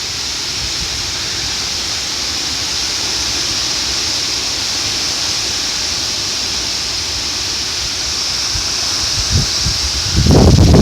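Heavy rain pouring down in a steady hiss, with wind rumbling underneath. Near the end a strong gust of wind hits the microphone with a loud, fluttering rush.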